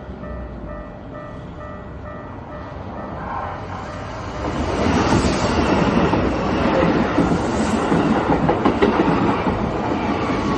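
Level-crossing warning bell ringing in rapid repeated dings, then about four and a half seconds in a Keikyu Main Line train passes over the crossing loudly, its wheels clattering on the rail joints and drowning out the bell.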